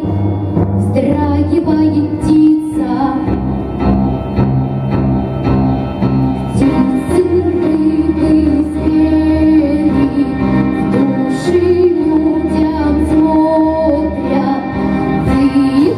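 A girl singing a slow song over a backing track, holding long notes.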